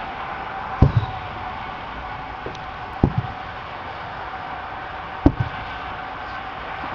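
Three fireworks shells bursting, each a low thump followed by a short echo, about two seconds apart.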